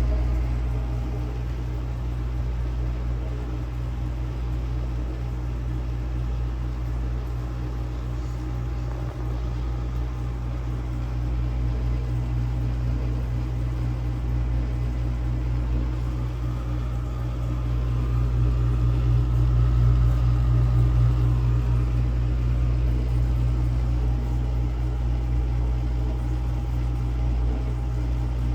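Vintage dishwasher's wash pump motor running with a steady low hum, swelling a little past the middle. The owner thinks the pump could be restricted, since the water no longer hits the tub at full force.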